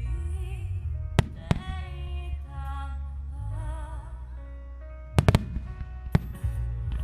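Aerial fireworks bursting with sharp bangs about a second in, again half a second later, in a quick cluster around five seconds and once more near six seconds, over a low rumble. Music with a wavering melody plays throughout.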